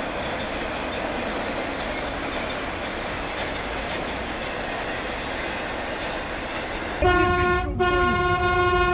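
Steady rumbling noise of a train running for about seven seconds, then a train horn sounds loudly, breaking off for an instant before holding on.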